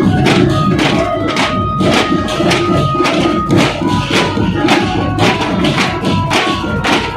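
Dhol-tasha troupe drumming: big dhol drums with tasha snare drums and ringing cymbals, a dense, steady run of fast strikes.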